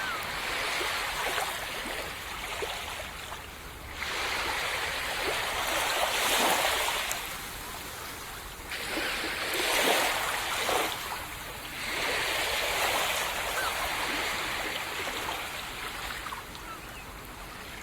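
Small waves breaking on a tropical beach and washing up the sand, a foamy hiss that swells about every three to five seconds and fades back between surges.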